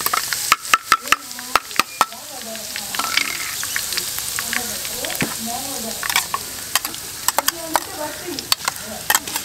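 Chopped aromatics frying in hot oil in an aluminium kadai, a steady sizzle with a wooden stick clicking and scraping against the pan and the rim of the bowl. The clicks come thickest in the first two seconds and again near the end, as more chopped greens are tipped in from a steel cup.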